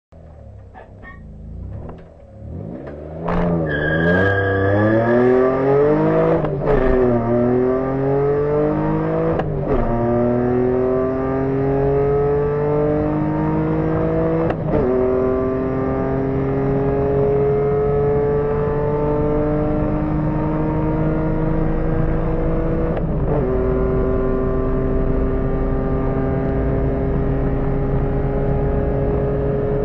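Opel Calibra's 2.5-litre C25XE V6 engine under hard acceleration, quiet for the first couple of seconds and then loud. Its pitch climbs through each gear and drops sharply at each of five gear changes, the climbs slower and longer in the higher gears.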